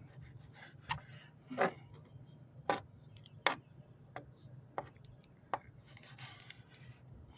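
Knife chopping through fish for cut bait on a hard surface: a series of about seven sharp chops, spaced roughly a second apart.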